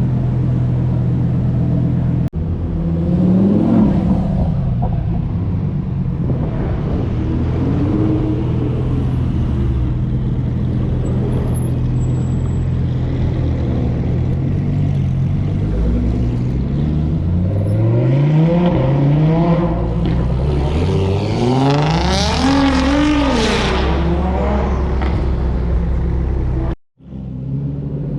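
Car engines idling with a steady hum, with several revs that rise and fall in pitch, the strongest near the end. The sound breaks off suddenly about two seconds in and again briefly near the end.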